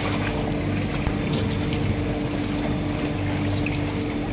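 Motorboat engine running steadily with a constant hum, over the rush of wind and water.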